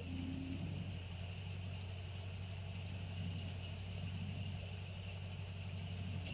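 A steady low mechanical hum with a steady higher hiss above it, unchanging throughout.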